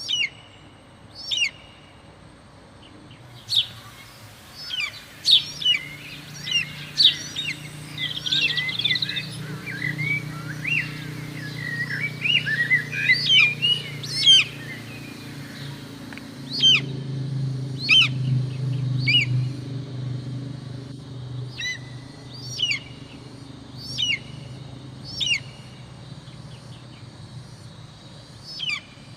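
Wild birds calling: sharp whistled calls repeat every second or two, with a busier stretch of overlapping chirps in the middle, over a low steady hum.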